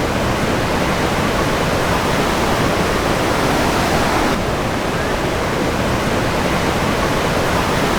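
Krimml Waterfalls rushing: a loud, steady, even wash of falling water. The sound turns a little brighter about four seconds in.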